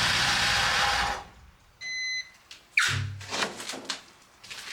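A diesel engine running, then cutting off abruptly about a second in. A short electronic beep follows, then a few brief knocks and clatters.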